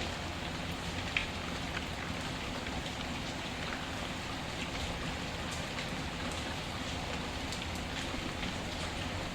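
Steady rain, with scattered sharp crackles and pops from a wood fire; one pop about a second in is the loudest.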